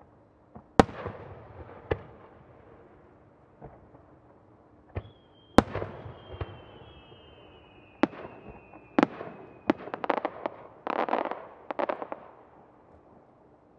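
Aerial firework shells bursting with sharp bangs, once about a second in and several more later. A shell's whistling tail sounds for about five seconds, its pitch drifting slightly down, and stops with a bang near the ninth second. A dense spell of crackling follows.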